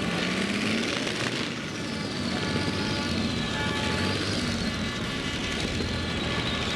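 Competition pulling tractor's engines running loud and steady, with a high whine that wavers up and down in pitch.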